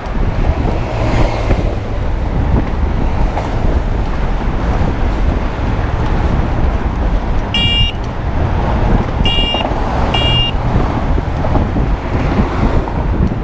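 Wind rushing over the microphone and road traffic during an electric bike ride, with a vehicle horn beeping three short times past the middle: once, then twice close together.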